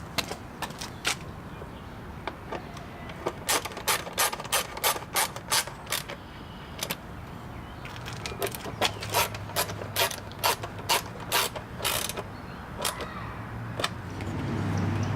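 Hand ratchet wrench clicking as it drives in screws, in two runs of sharp clicks about two a second.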